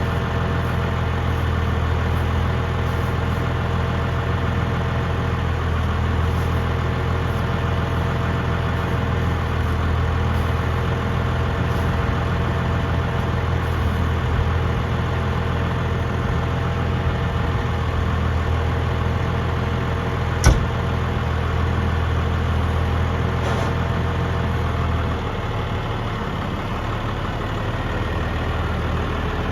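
Farm tractor engine idling steadily, with one sharp knock about two-thirds of the way through.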